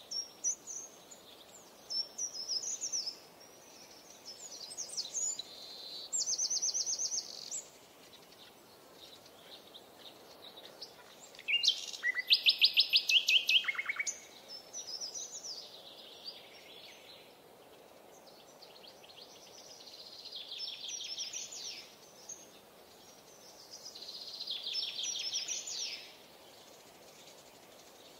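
Birdsong: a songbird singing short phrases of high chirps and fast trills every few seconds, loudest in a long trill about twelve seconds in, over a faint steady hiss.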